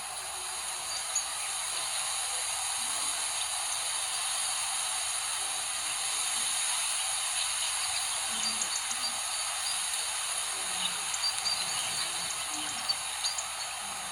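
Outdoor wild ambience: a steady high-pitched insect drone, like crickets or cicadas, with short scattered chirps of small birds, more frequent in the second half.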